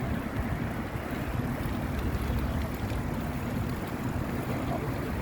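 Wind rumbling steadily on the microphone of a moving bicycle.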